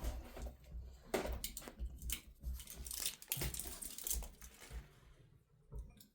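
Irregular soft knocks, clinks and rustles of dishes and food being handled during a meal, quieter near the end.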